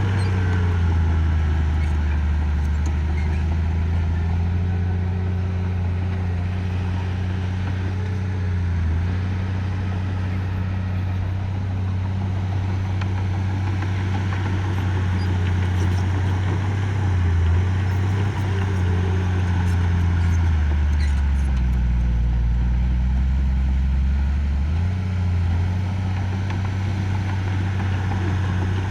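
Mini bulldozer's diesel engine running steadily and loudly; its note drops lower briefly several times, for a few seconds about two-thirds of the way through, then comes back up.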